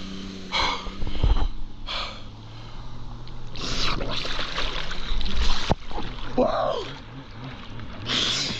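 Jet ski engine idling with a steady low hum, with several loud bursts of splashing water over it. A short voiced exclamation rises and falls about six and a half seconds in.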